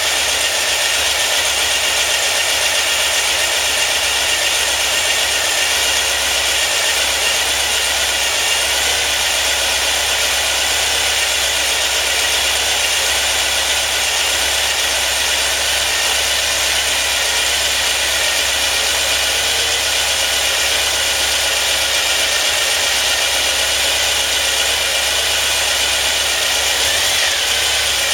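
2332cc air-cooled Volkswagen flat-four with dual Weber 48IDF carburetors and an A1 exhaust, running steadily at idle. Near the end the pitch starts to rise as the engine is revved.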